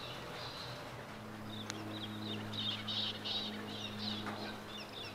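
Small birds chirping in many quick, short calls, busiest in the second half. Under them a steady low hum starts about a second in.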